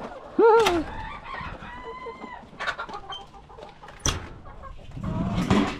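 Chickens clucking and calling, with a loud short arching call about half a second in and another loud call near the end, and a sharp click about four seconds in.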